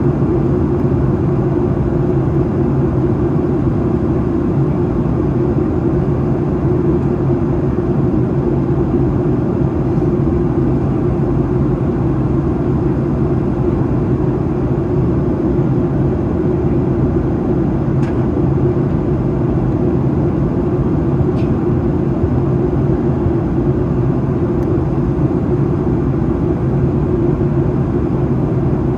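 Steady in-cabin drone of a Boeing 737-800 in descent: engine and airflow noise with a constant low hum.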